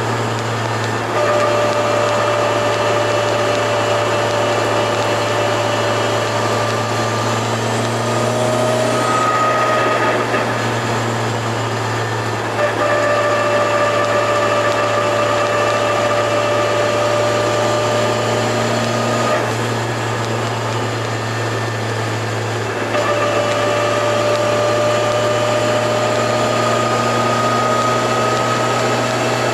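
Turbocharged Toyota AE86's engine running while the car is driven, a steady engine note that drifts slowly upward and breaks off and resumes a few times.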